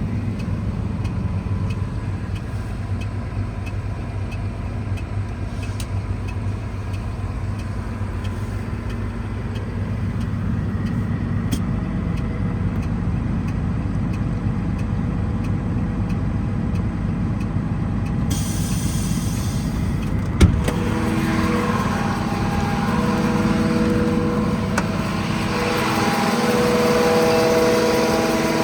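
Mercedes-Benz Atego 1524 truck's six-cylinder diesel engine running steadily. About twenty seconds in there is a sharp knock, after which several steady whining tones join and the sound grows louder toward the end.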